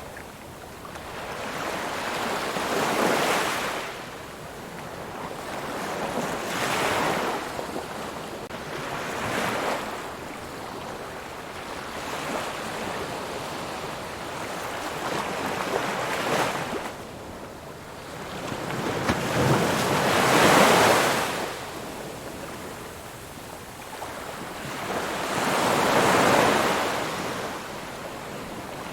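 Ocean waves breaking and washing up the shore, rising and falling in surges every few seconds, the loudest about two-thirds of the way through.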